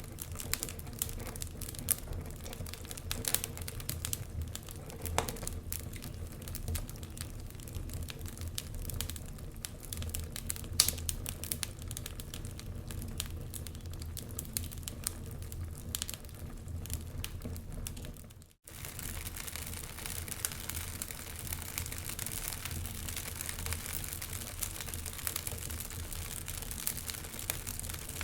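Wood fire crackling in a fireplace: irregular sharp pops and snaps over a low steady rumble and hiss. The sound cuts out for an instant about two-thirds of the way through, then goes on with a little more hiss.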